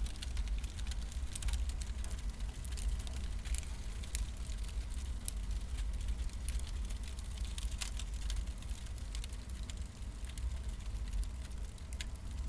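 Wood fires burning, with many irregular sharp crackles and pops over a steady low rumble.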